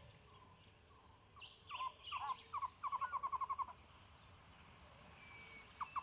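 Wild birds calling. A few short downward-swept notes are followed by a rapid trill of about ten notes a second, and near the end a higher, thinner trill starts.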